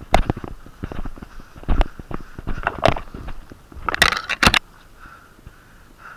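Footsteps of a player walking over rough outdoor ground, with a loud rustling scuffle about four seconds in, after which the steps stop. Then only heavy breathing through a stuffed-up nose is heard.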